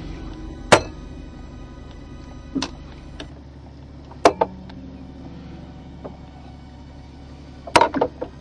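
A few sharp knocks: a loud one about a second in, two weaker ones over the next few seconds, and a quick cluster near the end, over a steady low hum.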